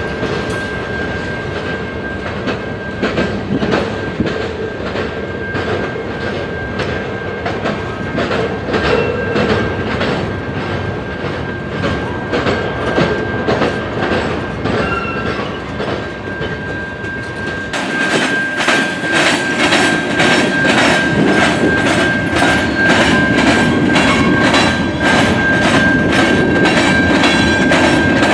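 Train rolling past, its wheels clacking rhythmically over the rail joints, with a steady high-pitched whine running through it. About two-thirds of the way through, the clacking becomes louder and sharper.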